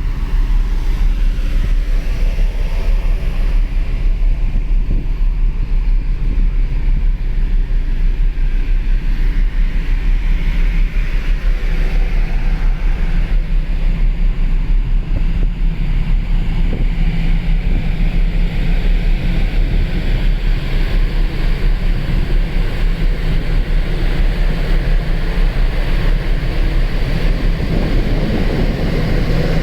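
A large car ferry underway: the ship's engines hum steadily under the rush of water, with wind buffeting the microphone.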